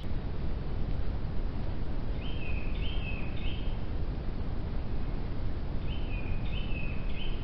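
A songbird calling twice, each time a short phrase of three or four clear high notes that each slide down in pitch, over a steady low rumble of outdoor background noise.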